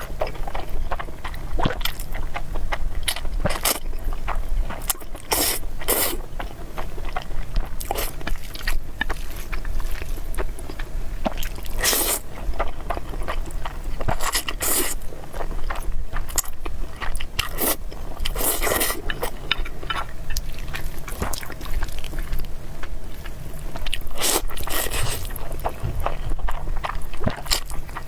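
A person eating noodles and meatballs close to the microphone: chewing and biting, with many irregular short, sharp mouth sounds over a low steady hum.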